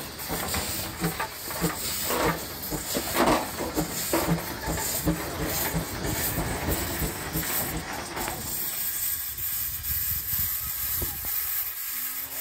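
Baker steam traction engine running, its steam hissing with a regular exhaust chuff about twice a second. About two-thirds of the way through, the chuffing and lower sound drop away, leaving a steady hiss.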